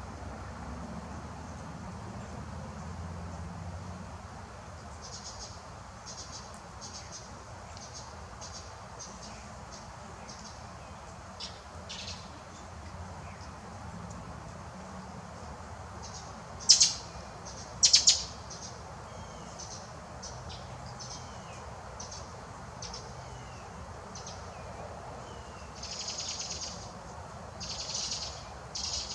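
Backyard birds calling: a scattered series of short, sharp, high chip notes. Two loud calls come just past halfway, and two longer, fuller calls near the end.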